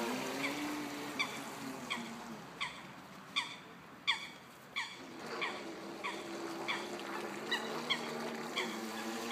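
A bird repeats a short, falling call about every 0.7 s. Under it runs the steady hum of the RC jetski's motor, which fades out about two seconds in and comes back past the halfway point.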